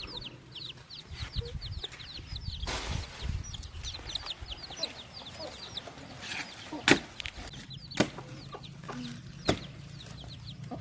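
Young birds peeping: a steady string of short, high, downward chirps, about four or five a second. Three sharp knocks come in the second half.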